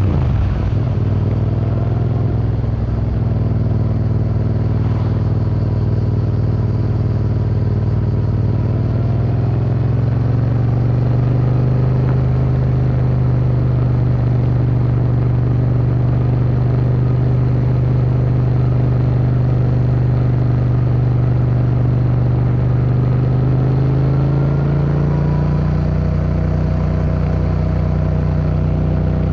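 Yamaha MT-07's 689 cc parallel-twin engine running through an Akrapovic Racing Line exhaust while riding at a near-steady pace, its note rising slowly and then holding. Near the end the revs dip briefly and then climb again.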